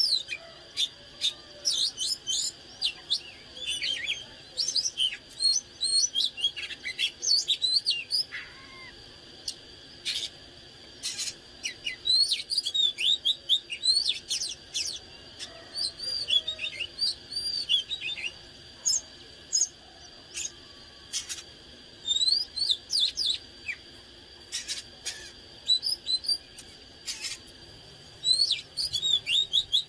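Oriental magpie-robin singing: a rapid, varied string of clear whistled notes and sweeping slurs, with harsh scratchy notes mixed in and brief pauses between phrases.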